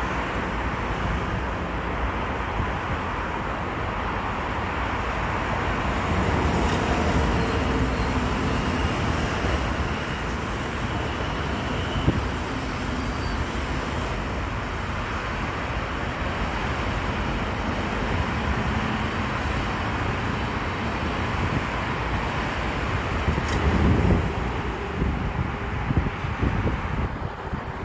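ICE high-speed train running along the tracks below: a steady rumble and rush of wheels on rail, swelling briefly near the end.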